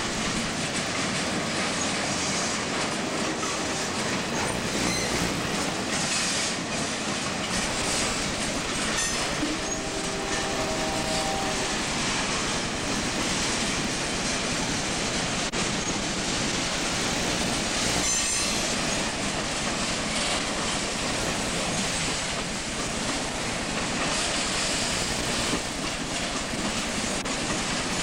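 Freight train cars rolling steadily past, their wheels clattering over the rail joints, with brief wheel squeals a few times.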